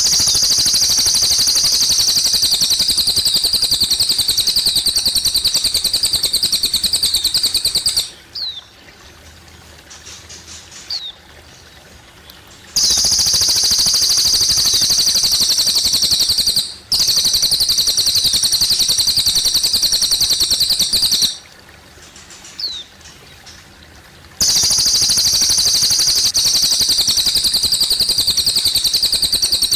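A cililin bird sings loud, rapid, high-pitched trills, each bout lasting several seconds. In the short pauses between bouts, single quick chirps sound over gently trickling water.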